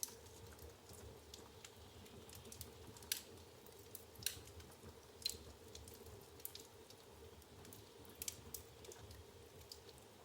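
Wood fire crackling in an open fireplace: faint, irregular sharp pops and ticks of burning logs over a soft low rumble of the flames.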